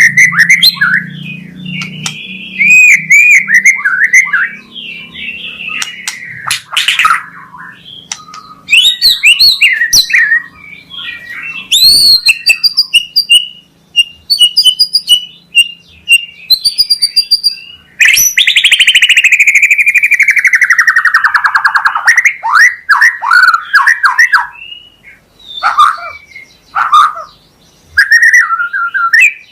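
White-rumped shama (murai batu) singing a loud, varied song of clear whistles, quick repeated notes and chatter, with a long falling whistle about two-thirds of the way through.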